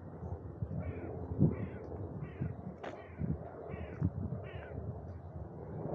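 A bird calling in a run of about six short, harsh, falling calls, roughly two a second, over the irregular soft thuds of footsteps on a forest path.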